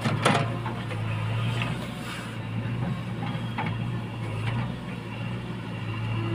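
Diesel engine of heavy machinery running steadily, with a couple of sharp knocks right at the start.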